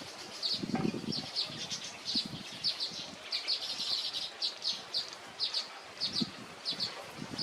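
Small songbirds chirping: quick clusters of short, high, downward-sweeping chirps, repeated throughout. A few low thuds sound under them, the strongest about a second in.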